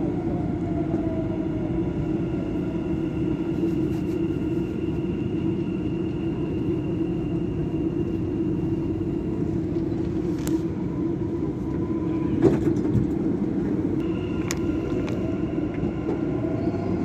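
Dubai Metro train running between stations, heard from inside the carriage: a steady rumble with a motor whine that falls in pitch at the start and rises again near the end. There is a single sharp knock about twelve seconds in.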